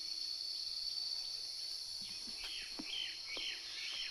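Steady high-pitched insect chorus in woodland, with a bird giving a quick series of short, falling chirps in the second half.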